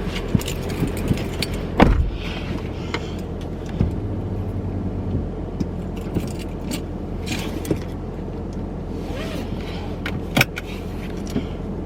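Steady low hum of a car heard from inside the cabin, with scattered clicks and knocks of handling; the sharpest knocks come about two seconds in and near the end.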